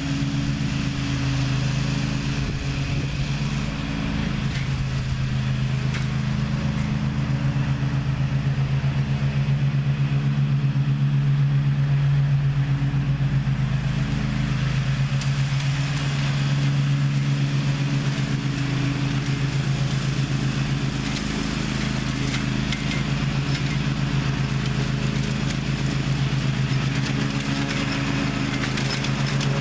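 Zero-turn riding mower engine running steadily, with small shifts in pitch now and then.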